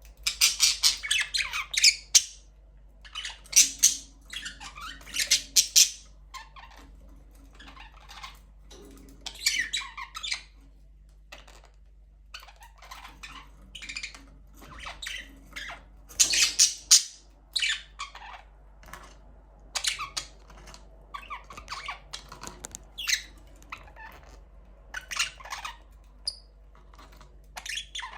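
Budgerigars chirping and squawking in quick, irregular bursts of high calls, loudest in the first two seconds and again about sixteen seconds in.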